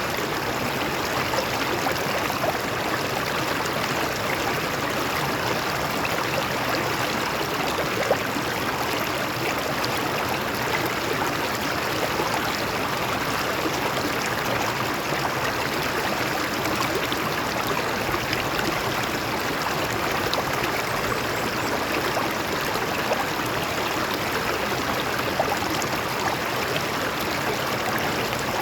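Shallow stream water flowing and splashing over rocks: a steady rushing and burbling with small splashes.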